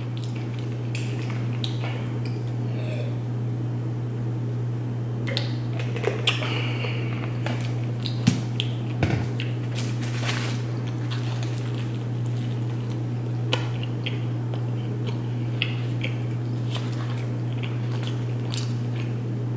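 Close-up eating sounds: soft chewing with scattered small clicks and taps of food and a bottle being handled, over a steady low hum.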